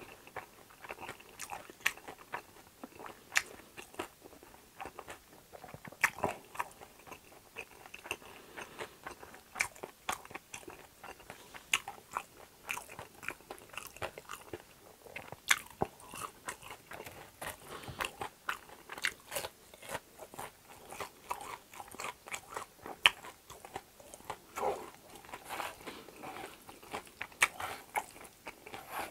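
Close-miked chewing and biting of crispy fried food such as pan-fried dumplings and breaded pork cutlet, with irregular crunches and wet mouth clicks.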